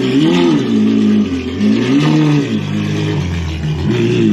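Ferrari 812 Superfast's 6.5-litre V12 running through a Novitec straight-pipe exhaust, revved in short throttle blips about every two seconds, each one rising and falling back to idle.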